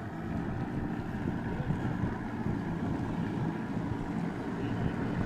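Wind rumbling on the microphone over the steady drone of a small boat's outboard motor running some way off.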